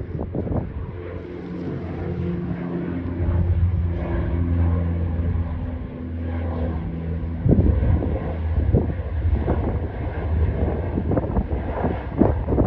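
Airplane engines droning with a low rumble and a steady pitched hum that stops about seven and a half seconds in. Wind buffets the microphone through the second half.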